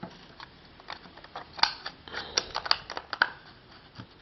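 Irregular sharp clicks and knocks of hard plastic as a GoPro HD Hero 2 is pushed into its casing by hand, a snug and stiff fit.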